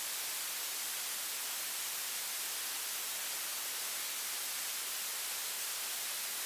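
Steady, even static hiss from an aircraft radio and intercom audio feed between transmissions.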